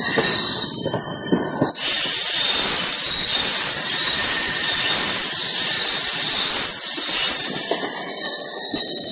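Running noise of a moving train heard from its doorway, with wheels squealing on the rails for the first couple of seconds, then a loud steady rushing noise from about two seconds in that eases near the end.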